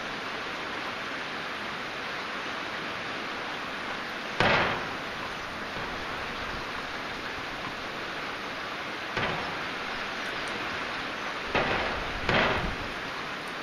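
Heavy rain falling steadily on a tiled roof and trees, an even hiss. Four sudden louder swells break through it, at about four, nine, eleven and a half and twelve seconds in, each fading within half a second.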